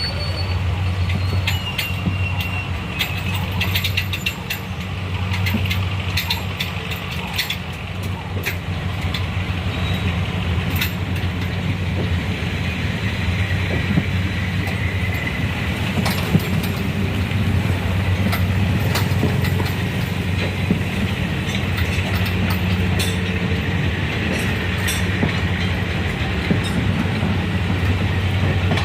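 Train or rail vehicle running: a steady low engine hum with scattered clicks and rattles.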